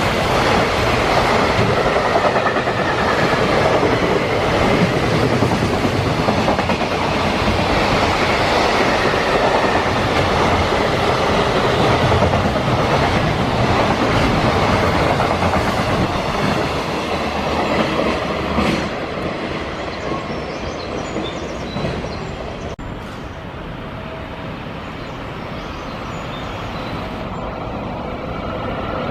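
A freight train running past, a steady loud rush of wheels on the rails that eases off somewhat after about twenty seconds.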